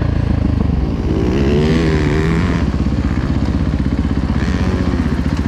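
Dirt bike engine running close by, with a rev that rises and falls about a second in.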